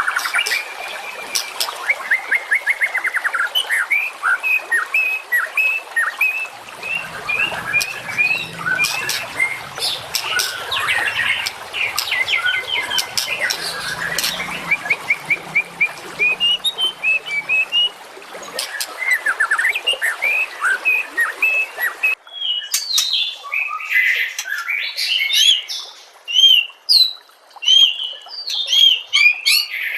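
Songbird song: rapid series of repeated chirps, trills and whistles over a hissy background, cutting abruptly about two-thirds of the way in to a cleaner recording of looping, squawky calls.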